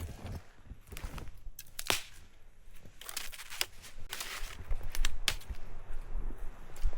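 Dry branches and twigs being snapped by hand, a handful of sharp cracks a second or more apart, with crunching and rustling in between and a low rumble building toward the end.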